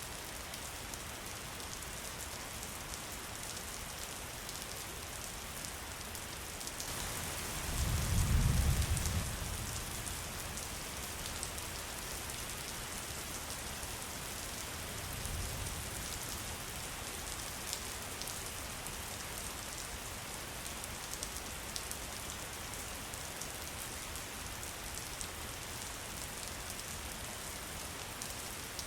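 Steady rain falling, with many small drop ticks throughout. A low rumble of thunder swells about eight seconds in, and a fainter one follows around fifteen seconds.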